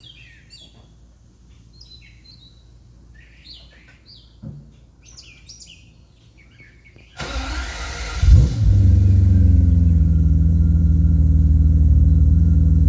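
Birds chirping quietly, then about seven seconds in the BMW 850i's 5.0-litre V12 is cranked and fires up cold through its Eisenmann cat-back exhaust, flaring briefly before settling into a steady idle. The idle is a bit lumpy, which the owner puts down to bad mass air sensors.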